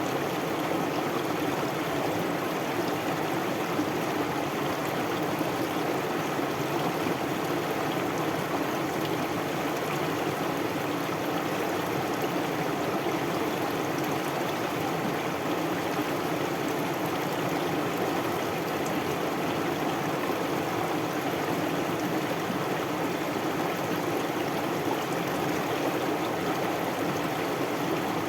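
Stream or river water flowing, a steady, unbroken rush with no changes.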